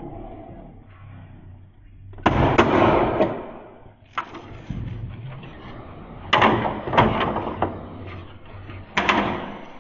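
Hard plastic knocks and clatter from an air conditioner's panels and parts being handled during disassembly, in three bursts of sharp strikes, each followed by a short rattle.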